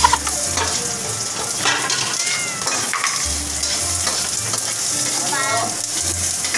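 Vegetables sizzling in a hot wok on a gas stove, a steady frying hiss, while they are stirred with a spatula.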